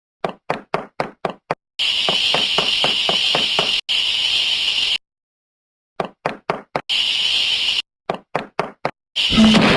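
Cartoon sound effects: short runs of quick sharp knocks, about four a second, alternate with a steady hiss, separated by abrupt silences. Near the end a loud firework blast goes off and carries on.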